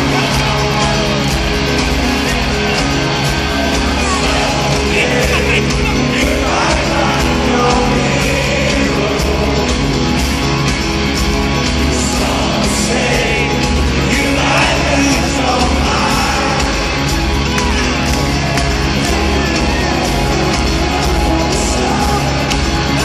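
Loud live rock band music with a steady beat, heard from the audience, with crowd shouts and whoops rising over it now and then.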